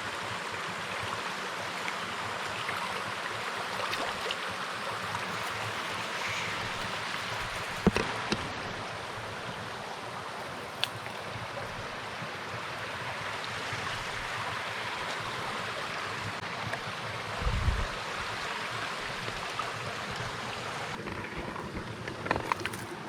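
Mountain stream flowing steadily. A sharp knock about 8 seconds in and a low thud near 17 seconds stand above the water.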